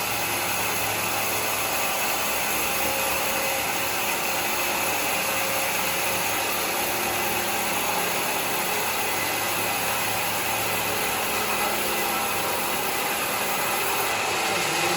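Sawmill running, giving a steady, even mechanical noise with a low hum that stays level throughout.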